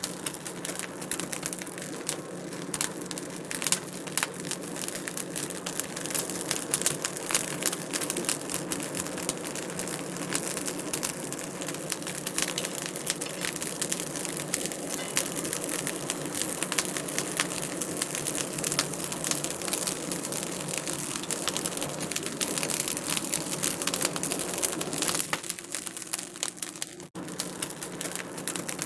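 Wood fire in a fireplace crackling: a dense, continuous stream of small pops and snaps over a steady low hum. The sound briefly cuts out near the end.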